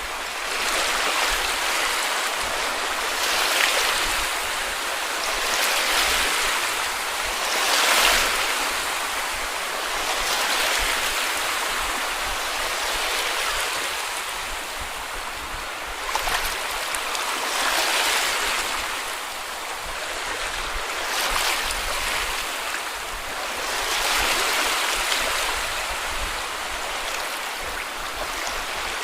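Small sea waves breaking and washing up on a beach, a steady wash that swells and eases every few seconds, with a stronger wave breaking about eight seconds in.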